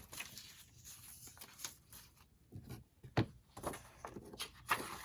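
Scattered light taps and rustles of paper and small tools being handled on a work table, with a few sharper knocks in the second half.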